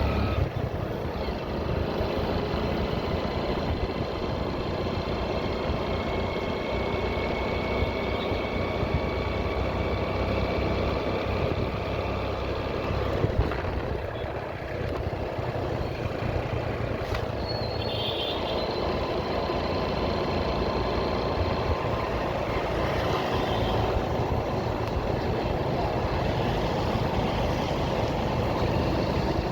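Motorcycle engine running steadily while riding, with road and wind noise. A brief high tone sounds a little past halfway.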